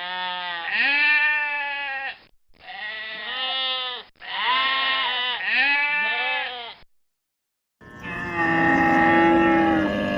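Three long, wavering bleats with short gaps between them, then after a pause of about a second a steadier, harsher call near the end.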